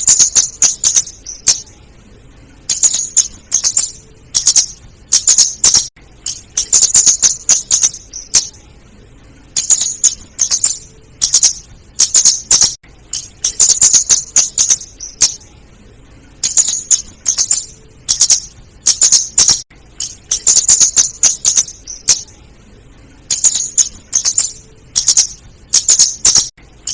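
Female flowerpecker (cabe-cabean / kemade) calling: rapid runs of very high, sharp ticking chips in bursts of about a second, repeated every second or two. It is a recording used as a lure call.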